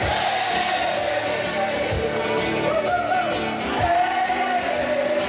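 Band playing a pop-rock song, a singer holding long, wavering notes over the accompaniment, with a few drum hits.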